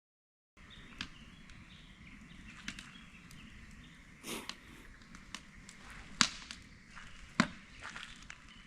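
Outdoor background hiss with a few scattered sharp clicks and knocks, the two loudest about six and seven and a half seconds in, and a brief rustle in between.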